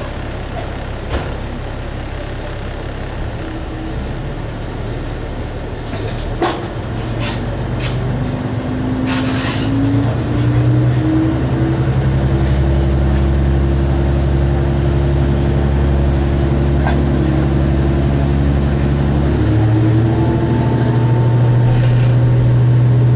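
Single-car diesel railcar pulling away, heard from inside the cabin: a few short air hisses and clicks, then the diesel engine rising in pitch and getting louder as it accelerates, its note shifting about two-thirds of the way through.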